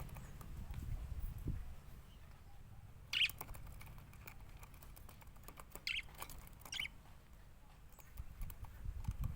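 Budgerigars giving a few short, scattered chirps, over a low rumble that is strongest at the start and near the end.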